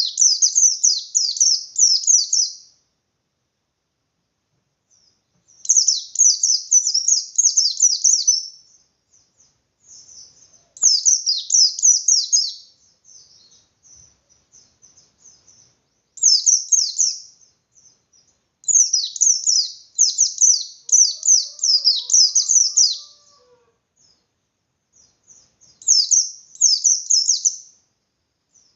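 Pleci bustomi (white-eye) singing its hard-driven 'ngalas' song: repeated bursts of fast, high-pitched chirping notes, each a couple of seconds long, with short pauses between. It is the kind of song that provokes other white-eyes to answer and sing more fiercely.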